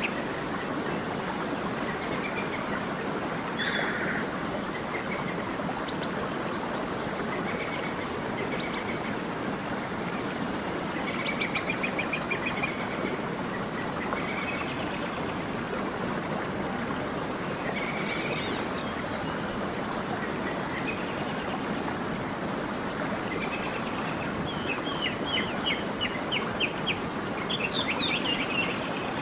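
A stream running steadily with a constant rushing of water, while small birds chirp and sing over it in short calls and rapid trills, busiest around the middle and near the end.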